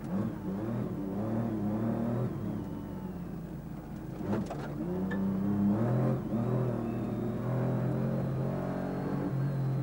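Rally car engine heard from inside the cabin, driven hard, its note repeatedly rising and then dropping back as the car is worked through a narrow stage. A single sharp knock comes about four seconds in.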